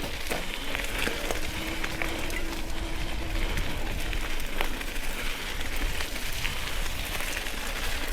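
Riding a mountain bike in heavy rain: a steady hiss of rain and wet trail noise, with a low rumble and scattered clicks and rattles.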